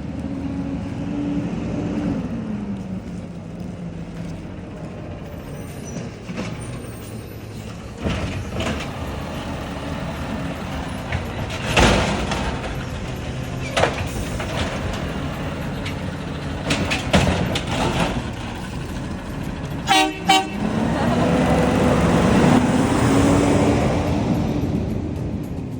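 Garbage truck engine running, its pitch climbing and dropping as it revs, with several loud clanks and knocks partway through and two short horn toots about twenty seconds in.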